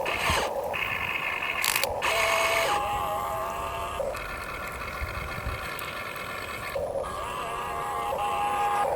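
Huina 1592 remote-control excavator's electric motors and gearboxes whining, starting and stopping several times in runs of one to three seconds as it digs.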